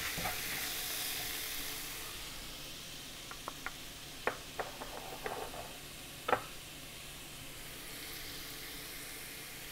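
Tomato and onion masala sautéing in coconut oil: a steady sizzle, with a handful of clicks of the spoon against the pan midway as it is stirred.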